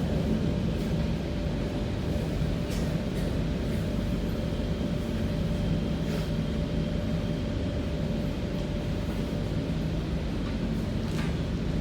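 Interior running noise of an MTR Rotem EMU (K-Train) in motion: a steady rumble of wheels and running gear with a faint steady whine, and a few light clicks.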